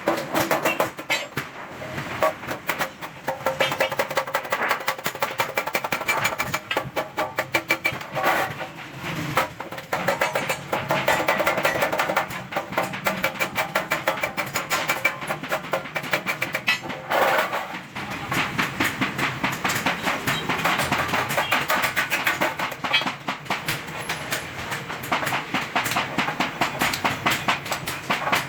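Rapid hammer blows on stainless steel sheet, many strikes a second, each with a short metallic ring, with a brief pause about two thirds of the way through.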